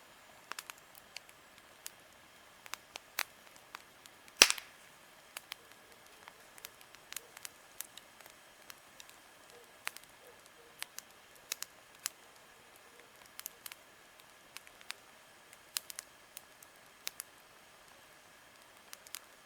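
Wood campfire crackling, with irregular sharp snaps and one much louder pop about four seconds in.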